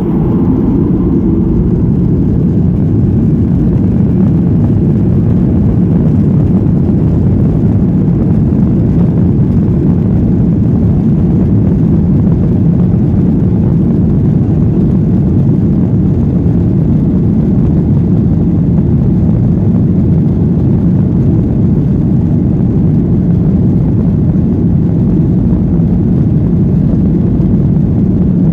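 Boeing 737-800's CFM56 jet engines at high thrust, heard from inside the cabin as a loud, steady low roar, typical of the takeoff roll.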